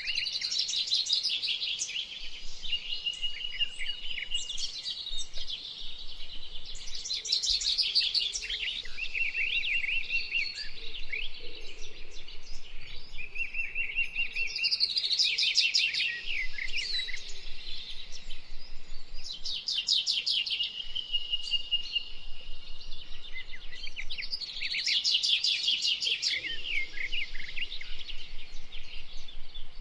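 Wild songbirds singing in the open in repeated song phrases of a few seconds each, with rapid high trills and runs of clear whistled notes, over a faint steady background hush.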